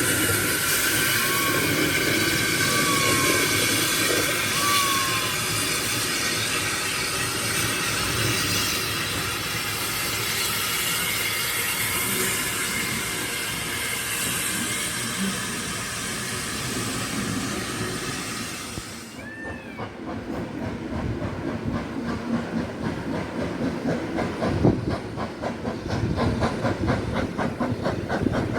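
Hudswell Clarke 0-6-0 saddle tank steam locomotive: a steady hiss of escaping steam. It changes abruptly about two-thirds through to rhythmic exhaust beats that grow louder as the engine works.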